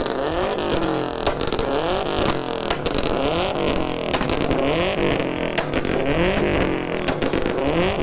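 Loud car engines being revved over and over, the pitch rising and falling about once a second, with sharp exhaust pops and cracks throughout.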